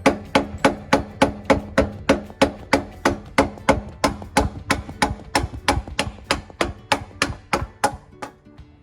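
Rubber mallet hammering a wood block against a BMW M4's exhaust tip in quick, even strikes, about three or four a second, to knock the tip loose. The strikes stop shortly before the end.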